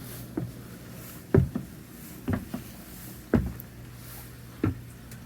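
A series of short, dull thumps roughly once a second, over a steady low hum.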